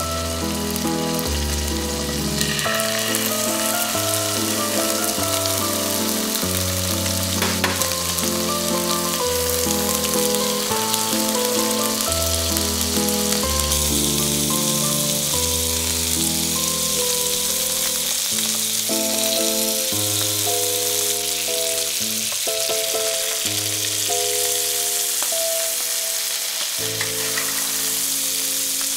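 Salmon fillets frying in a cast-iron skillet: a steady sizzle, under background music with a slow run of notes.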